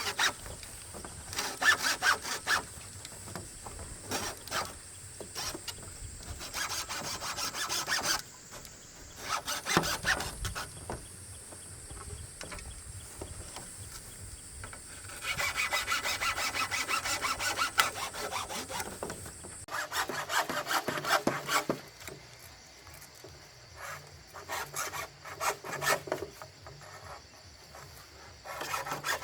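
Handsaw cutting bamboo in several bursts of rapid back-and-forth strokes, with short pauses between them. A steady high-pitched whine sits behind the sawing and stops about twenty seconds in.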